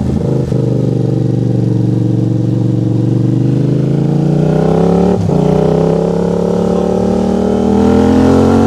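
Motorcycle engine under way and accelerating. Its pitch climbs steadily, drops briefly about five seconds in as it shifts up a gear, then climbs again.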